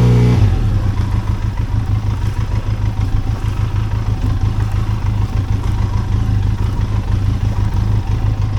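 Benelli TRK 502X's 500 cc parallel-twin engine idling steadily.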